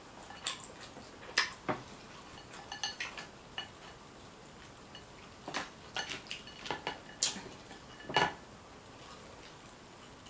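Irregular clinks and clicks of utensils against dishes during a seafood boil meal, some with a brief ring. The loudest clinks come a little over a second in and around seven and eight seconds in.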